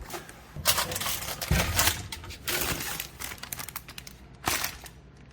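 Irregular crinkling and rustling of a won prize's packaging as it is handled and opened.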